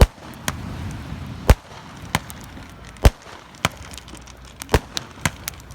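Fireworks going off: a string of sharp bangs at irregular intervals, the loudest at the very start and about one and a half and three seconds in.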